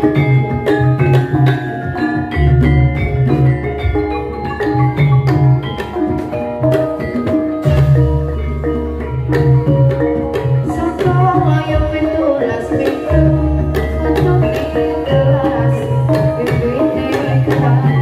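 Javanese gamelan playing: bronze metallophones strike a steady pattern of short ringing notes over deep kendang hand-drum strokes.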